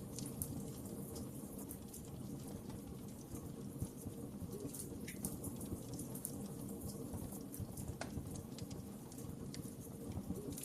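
Fire burning in a fireplace: a steady low rumble of flames with scattered crackles and pops, one louder pop about eight seconds in.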